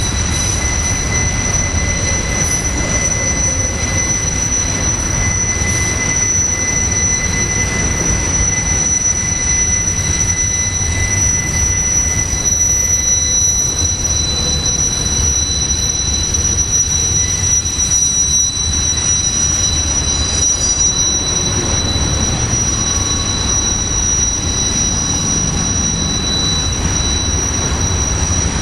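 Freight train of autorack cars rolling past with a steady low rumble, overlaid by steady high-pitched wheel squeal; a lower squeal tone drops out partway through.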